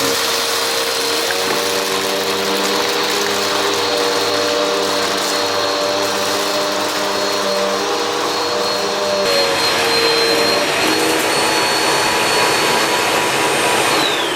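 Motor of a budget bagless upright vacuum cleaner (the Swivel, also sold as the Black & Decker Air Swivel Lite) running loud while picking up test debris from carpet, its whine wavering slightly in pitch. Near the end it is switched off and the whine falls away.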